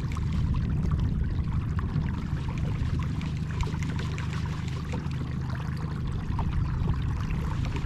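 Water lapping and trickling against a kayak hull: a constant patter of small splashes over a low, steady rumble.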